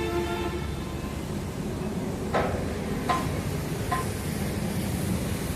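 Three sharp metal clanks a little under a second apart, the last two ringing briefly, like hammer blows on steel, over a steady low machine drone.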